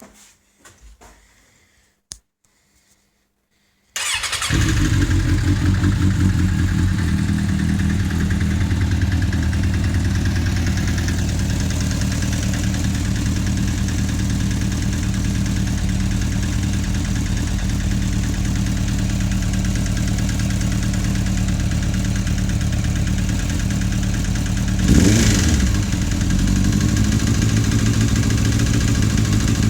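Suzuki GSF 650 motorcycle's inline-four engine starting about four seconds in after a few faint clicks, then idling steadily with a brief blip of throttle near the end. It has a distinct clicking noise that a valve adjustment did not cure; the owner has found one camshaft lobe slightly more worn than the others but does not know if that is the cause.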